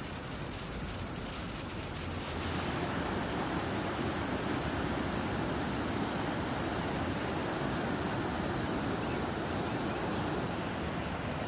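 Swollen Beas River rushing in spate: a steady wash of fast, high water that grows a little louder about two and a half seconds in.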